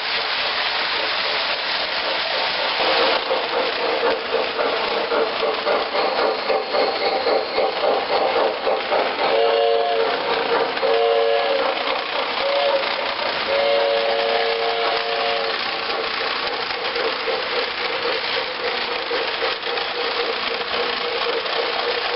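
Model steam locomotive running with a steady hiss and fast chuffing, and its chime whistle blown four times, long, long, short, long: the grade-crossing signal.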